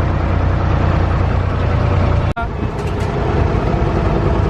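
Engine of a Dubai Creek abra water taxi running steadily with a deep hum, cut off suddenly a little over two seconds in and then running on.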